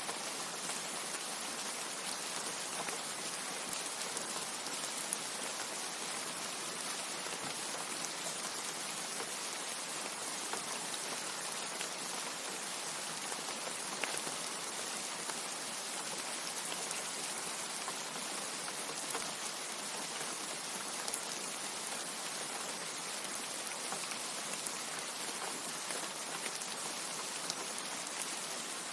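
Steady rain falling as a constant hiss, with scattered individual drop ticks.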